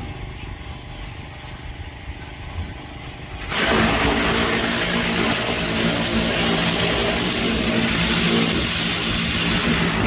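Pressure washer's engine running steadily under the loud hiss of the water spray. Much quieter for about the first three and a half seconds, then abruptly loud again.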